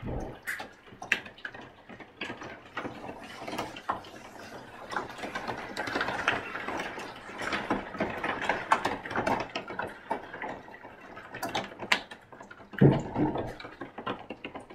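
Rain hitting a window: a dense, irregular run of drop ticks over a steady hiss, with a louder low thump about thirteen seconds in.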